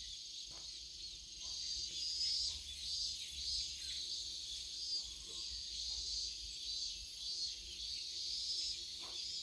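A chorus of cicadas: a steady high buzzing, with shrill pulses at the top coming and going every half second or so.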